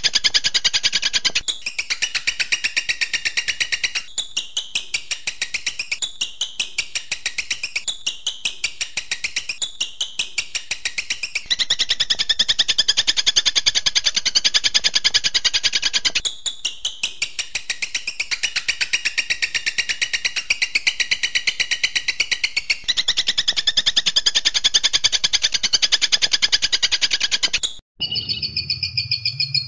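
Songbird giving a very fast, high-pitched rattling trill in long unbroken runs, dipping in pitch now and then. Near the end it cuts off abruptly and gives way to a different call over a low hum.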